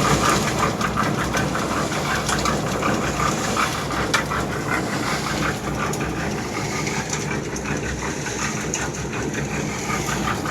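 An engine running steadily, with an irregular clatter of knocks over it.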